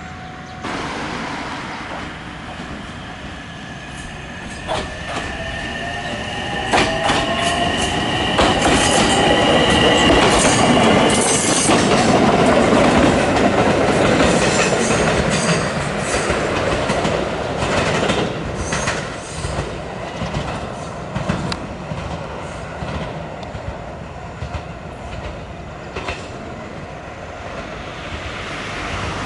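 An electric train of the Ichibata Electric Railway passing close by: a rising whine as it picks up speed, then the loud rush of the car going past, followed by a run of sharp clicks of wheels over rail joints.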